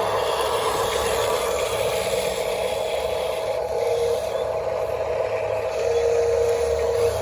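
Small electric motors and plastic gearboxes of remote-control toy construction vehicles whining steadily, with a faint rattle.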